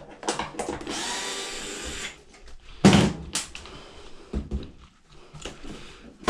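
Power drill or driver whirring for about a second, then a loud knock and clatter of metal parts as the washer's panel and parts are handled.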